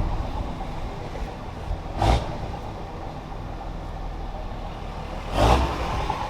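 2006 Dodge Ram's 5.9-litre Cummins turbo-diesel inline-six running while the truck is driven, a steady low rumble. Two brief louder rushes of noise come about two seconds in and again near the end.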